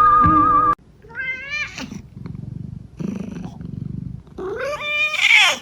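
A cat meows twice: a short meow about a second in, and a longer, louder meow that rises and falls near the end. A low rumble lies between the two meows, and the first moment is the tail of a flute-like tune that cuts off abruptly.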